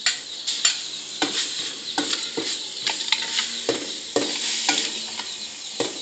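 Chili paste and red onion sizzling in hot oil in a wok, with a metal spatula scraping and knocking against the pan about twice a second as it is stirred.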